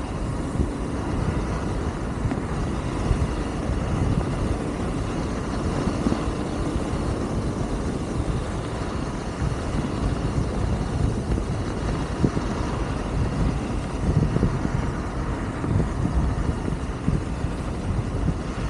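Wolf King GT Pro electric scooter riding along at speed: steady rumbling wind and road noise on the microphone, with a faint steady electric motor whine.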